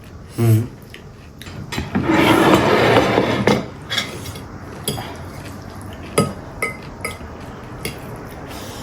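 Cutlery clinking and scraping against plates and bowls during a meal: a louder noisy stretch of about a second and a half near the start, then scattered single clicks and taps.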